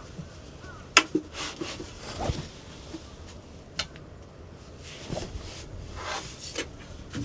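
A few sharp knocks and clicks with short rustles between them, over a faint low rumble; the loudest knock comes about a second in.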